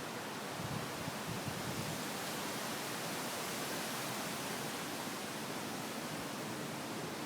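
Strong wind blowing, a steady rushing hiss with a few low gusts in the first couple of seconds.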